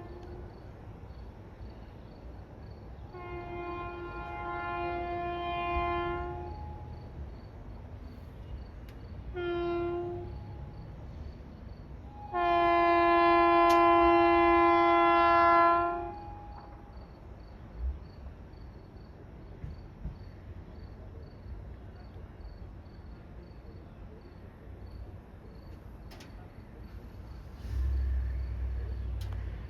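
Long Island Rail Road train's air horn sounding the grade-crossing signal: the end of one blast, then a long blast, a short blast and a final long blast, the loudest, which stops about sixteen seconds in. A low rumble swells near the end.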